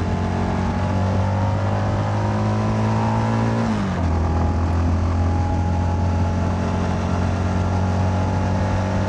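CFMoto 300NK motorcycle engine under way, its pitch climbing slowly as it accelerates, then dropping sharply a little under four seconds in at an upshift and running steadily after.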